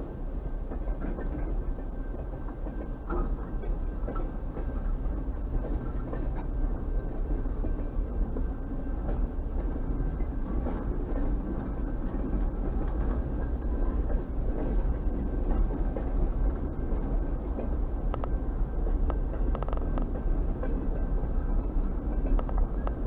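Freight train boxcars rolling past, a steady low rumble of steel wheels on the rails, with a few brief sharper sounds near the end.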